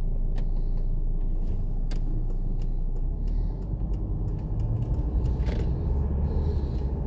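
Car engine rumble heard inside the cabin, with light clicks repeating about every three-quarters of a second.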